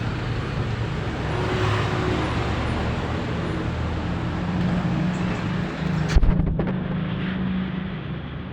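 Suzuki GT185's two-stroke twin engine running steadily on its first run after an engine rebuild. A single sharp knock sounds about six seconds in.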